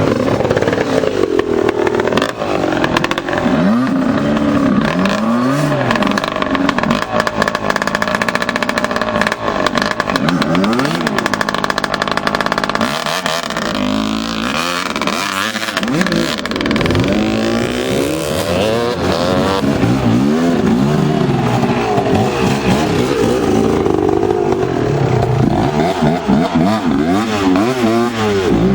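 Several racing motorcycles revving hard and passing one after another. Their engine notes rise and fall as they come by and overlap.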